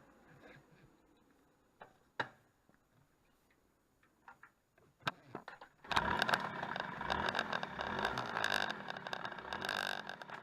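A few scattered clicks and knocks, then about six seconds in the Yamaha YB-1's small two-stroke engine starts and runs, much louder than the clicks, stopping near the end.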